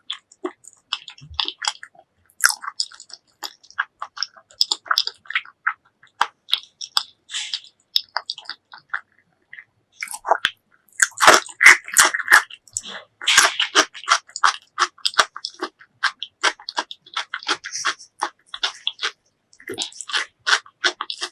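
Close-miked mouth sounds of someone chewing braised pork leg: a dense run of irregular wet clicks and smacks. There is a brief pause about halfway through, then a louder, busier stretch of chewing.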